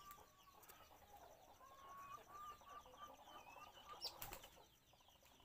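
Faint bird chirps and short whistled notes, with a brief flutter of wings about four seconds in as the cucak rawis moves on its perch.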